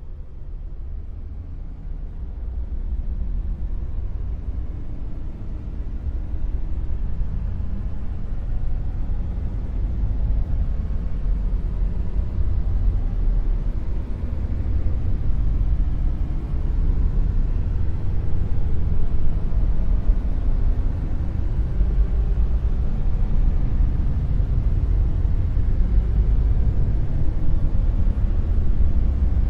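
Dark noise: a steady, deep rumbling noise with almost all its weight in the low bass and no tone or rhythm. It swells over the first several seconds, then holds.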